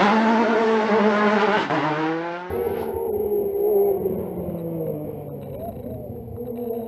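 Rally car engine accelerating hard, its note climbing in pitch. About two and a half seconds in, the sound changes abruptly to a lower engine note that rises and falls, with a thin steady high whine above it.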